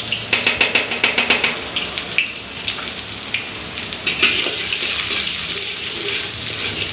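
Sliced shallots frying in hot oil in a wok: a dense crackling as they hit the oil, settling into a steady sizzle that grows louder about four seconds in.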